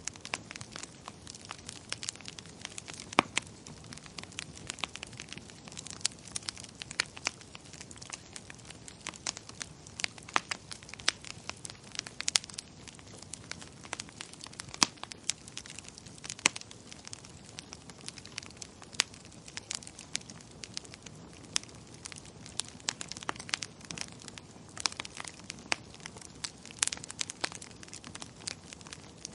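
Wood fire crackling in a fireplace: irregular sharp pops and snaps, several a second at times, over a low steady hiss of the burning.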